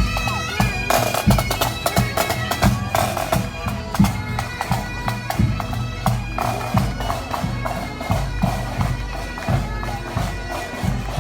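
Pipe band playing in a street parade: the steady drones and melody of bagpipes over a regular beat of drums.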